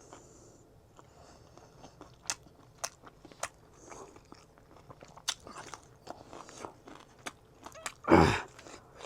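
A person chewing and biting food close to the microphone, with sharp crunches every second or so. A brief, louder noisy burst about eight seconds in.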